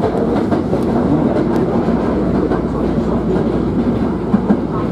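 Hankyu electric commuter train running at speed, heard from inside the car: a steady rumble of wheels on rail with a few faint clicks.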